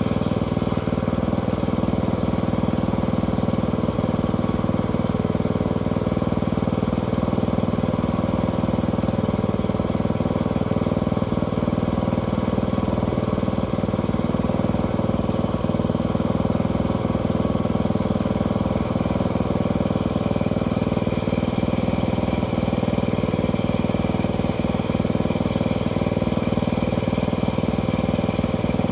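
Small engine of a portable sawmill running steadily at one constant speed, with no revving.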